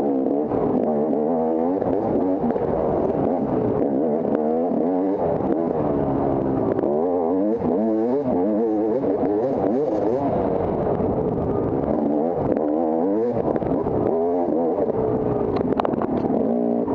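Dirt bike engine revving up and down over and over as the rider works the throttle and gears through a trail, with a few sharp knocks near the end.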